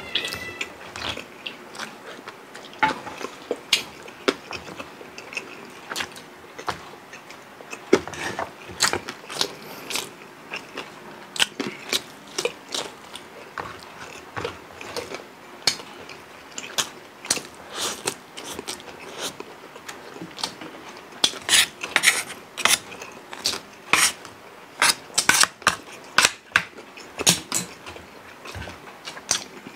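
Close-miked chewing and biting by two people eating crispy deep-fried pork leg and vegetables: irregular crunches and wet mouth clicks, coming thickest about three quarters of the way through.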